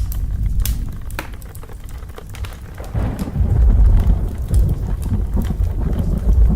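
Fireplace crackling with sharp pops over rain, and from about three seconds in a low rumble of thunder builds and rolls on.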